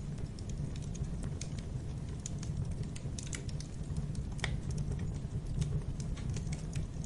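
Fire in a fireplace crackling: irregular sharp crackles and pops over a low steady rumble, with one louder pop about four and a half seconds in.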